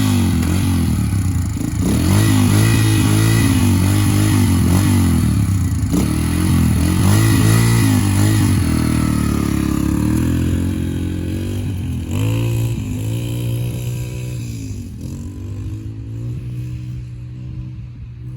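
Yamaha TT-R125 dirt bike's single-cylinder four-stroke engine running and being revved, its pitch rising and falling again and again; the sound grows gradually fainter over the last several seconds.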